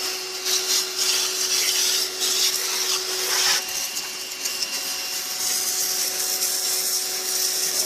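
Pressure washer spraying water onto a car, a steady hiss with a low hum beneath it that stops about three and a half seconds in.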